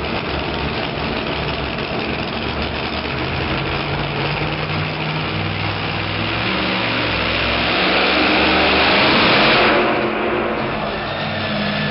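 Engine of a Chevy Colorado super modified two-wheel-drive pulling truck running hard down the track, getting louder through the pull. It cuts back sharply about ten seconds in, as the driver lifts off at the end of the run.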